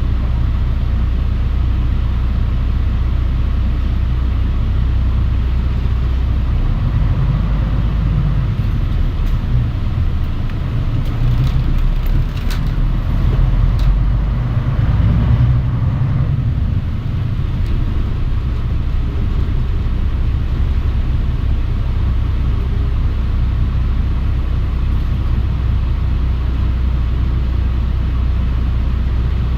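Mitsubishi Fuso Aerostar city bus heard from inside the cabin while driving: a steady low engine drone with road noise, its note shifting and swelling for several seconds in the middle, with a few brief clicks and rattles.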